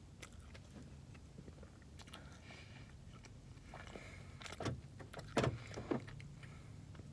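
Car engine idling with a steady low hum, with a few sharp clicks and crackles, like handling the food wrapper, between about four and six seconds in.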